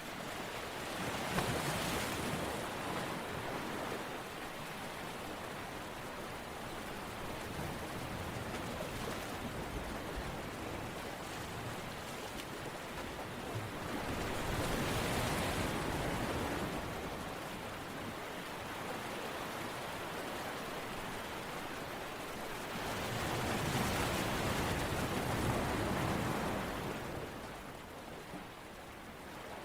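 Ocean surf: a steady rush of water that swells three times, roughly ten seconds apart, as waves wash in and draw back.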